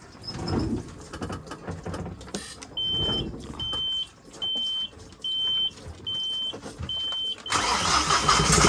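An engine panel alarm beeps six times, about one beep a second, with the ignition on. Near the end the yacht's inboard diesel engine cranks and starts running.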